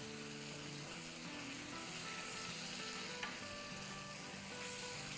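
Chicken pieces in spice masala sizzling as they are browned in a nonstick wok and stirred with a silicone spoon, with a little water added to keep the masala from sticking. Soft background music plays underneath.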